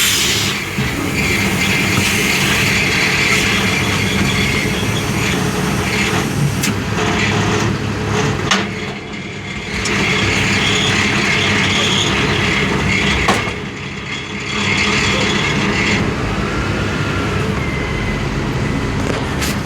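Ottawa shunt truck's engine running steadily, with a hiss over it; the sound drops away briefly twice.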